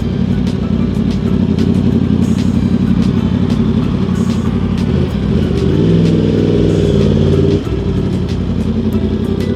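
Yamaha R1 sportbike's inline-four engine running under way. About halfway through the revs climb and hold higher, then drop off suddenly shortly before the end.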